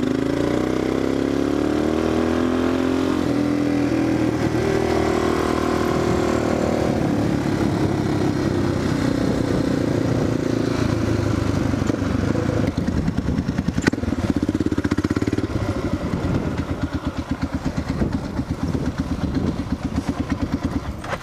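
Suzuki single-cylinder dual-sport motorcycle engine pulling away: the revs rise, break at a gear change, and rise again. The engine then settles into a lower, lumpy beat as the bike slows.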